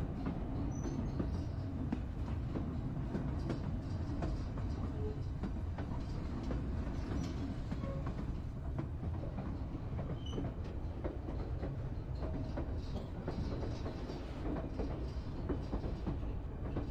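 Narrow-gauge White Pass and Yukon Route passenger train running along the track: a steady low rumble of the cars, with scattered clicks and rattles from the wheels on the rails.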